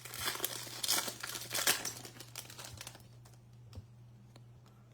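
Topps Chrome trading-card pack wrapper being torn open and crinkled for the first two to three seconds, then quieter with a few light clicks as the cards are handled.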